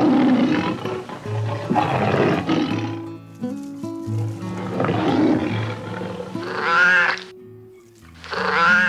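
A lion roaring several times in rough, drawn-out calls over calm background music, with a higher, wavering call about seven seconds in.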